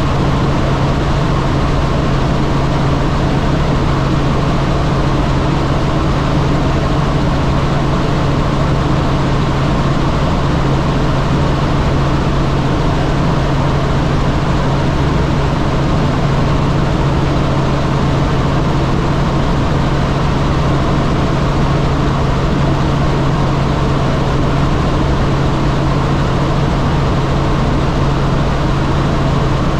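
Helicopter in flight: a loud, steady drone of rotor and engine with a strong constant low hum.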